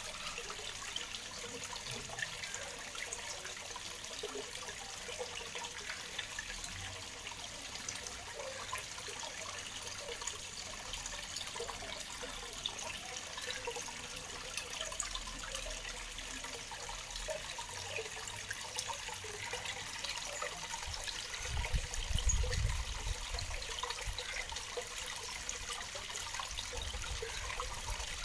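Waterfall water splashing and trickling steadily, with a brief low rumble about three-quarters of the way through.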